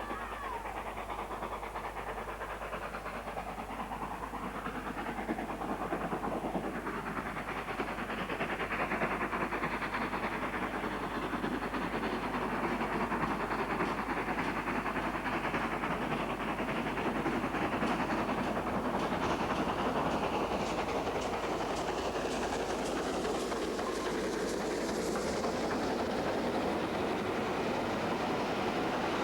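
Steam locomotive Flying Scotsman, an LNER A3 Pacific, running with its train: a steady rush of engine and wheels on the rails, growing louder over the first several seconds and then holding.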